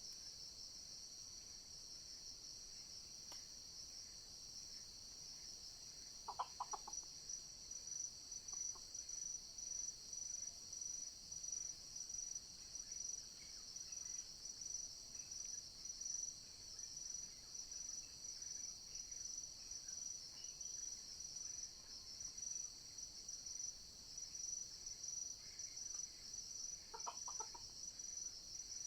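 Red junglefowl crowing twice, two short calls about twenty seconds apart, over a steady high-pitched insect drone.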